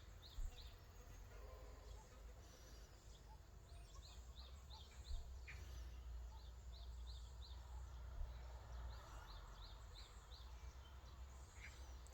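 Faint outdoor ambience: a small bird's short high chirps in quick runs of three to five, repeated several times, over a low rumble of wind.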